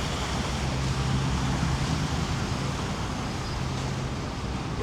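Steady city street traffic noise: vehicles running along the street with a constant low engine hum under a wash of road noise.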